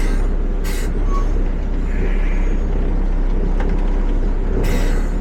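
Peterbilt 520 garbage truck's engine running with a steady low rumble, with short bursts of air hissing from the air system about a second in and again near the end.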